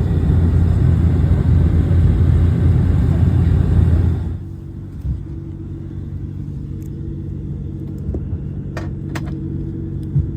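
Road and engine noise of a moving car heard from inside the cabin: a loud low rumble that drops suddenly about four seconds in to a quieter steady hum with a faint held tone.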